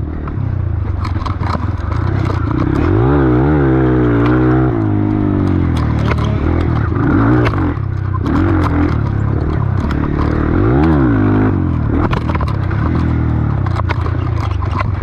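Kawasaki KLX140 dirt bike engine being ridden, revving up and dropping back again and again as the throttle is worked, with scattered clicks and clatter over the steady engine noise.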